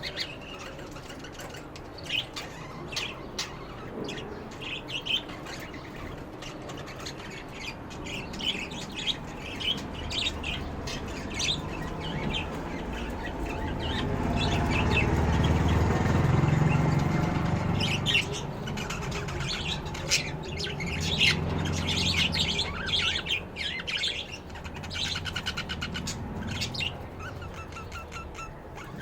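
Lovebirds chirping in quick, high, repeated calls. A low rumble swells up in the middle, becomes the loudest sound, and then fades under the chirping.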